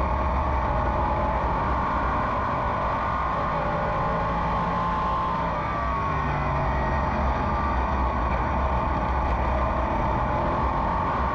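Race car engine running hard under green, heard from inside the car: a steady, loud drone whose pitch rises and falls a little as the car goes through the turns and down the straights.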